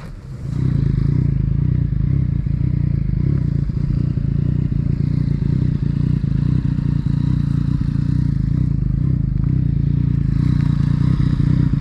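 Yamaha MT-09 three-cylinder engine with an Akrapovic titanium exhaust, running steadily at low revs. It comes in suddenly about half a second in, a deep, even exhaust note.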